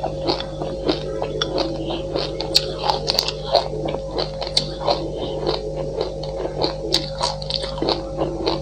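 Close-miked crunchy chewing of a mouthful of dry black and white sesame seeds, a dense, irregular run of small crackles and clicks.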